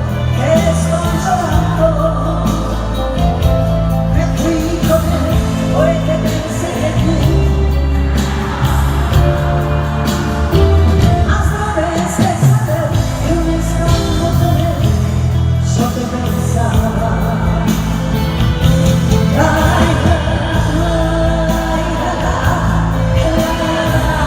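Live pop ballad performance: a band playing with singing over sustained bass notes, heard in a large hall.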